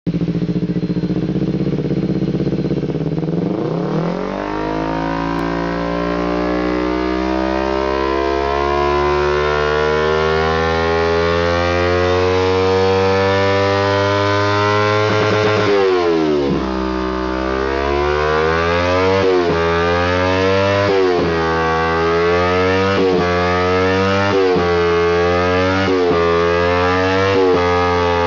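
Kawasaki Z250 motorcycle engine running through an aftermarket Termignoni Diavel-style exhaust: idling for about four seconds, then revved up and held at high revs. About halfway through the revs drop sharply and climb again. After that they stay high, with a short dip and recovery every couple of seconds.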